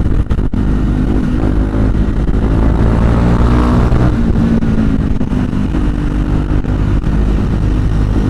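KTM Duke 390's single-cylinder engine running under way, its note rising and falling slightly with the throttle, over a low rumble of wind.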